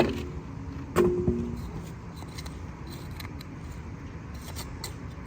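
Two metallic clanks about a second apart, each ringing briefly, then faint scattered clicks over a low steady rumble.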